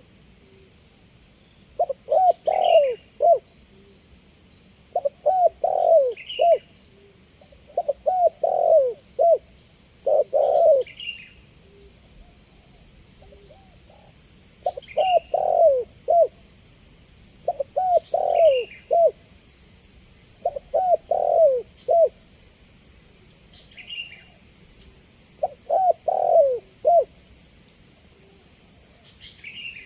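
Spotted dove (tekukur) cooing: a phrase of several short coos repeated about every three seconds, nine times, each phrase with a faint short high chirp. A steady high hiss runs behind.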